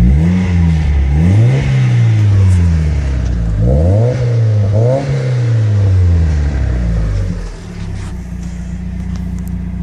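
1990 Mazda Miata's 1.6-liter inline-four engine being revved in a few quick throttle blips, each rise in pitch falling back. After about seven and a half seconds it settles back to a steady idle.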